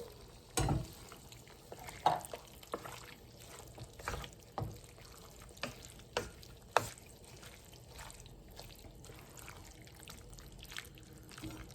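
A spoon stirring a thick, creamy chicken pot pie filling in a pot, with scattered knocks of the spoon against the pot over a faint sizzle.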